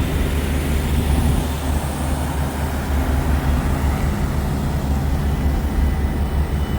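Truck running: a steady low engine and road drone.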